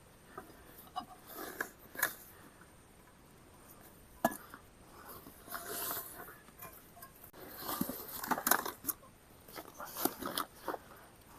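Irregular rustling, crunching and sharp clicks of a person handling camp gear close to the microphone while setting up camp, with a few louder knocks.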